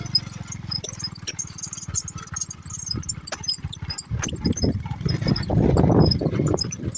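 Small motorcycle engine running with a pulsing low rumble and light metallic rattling. It becomes louder and rougher about four seconds in.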